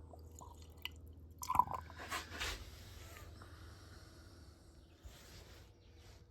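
Faint squishes, drips and small clicks of fuel being squirted from a bottle into the intake ports of a removed Yamaha TT-R250 cylinder head, a check of whether the intake valves seal. The loudest sounds, a few sharp squishes and a short hiss, come about one and a half to three seconds in.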